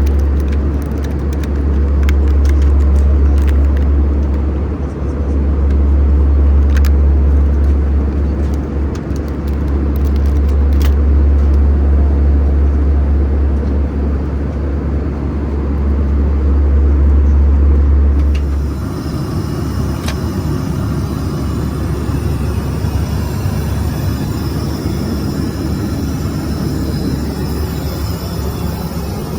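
Steady low rumble of a moving vehicle heard from inside, with a few light clicks. About two-thirds of the way through it cuts abruptly to a quieter, hissier drone.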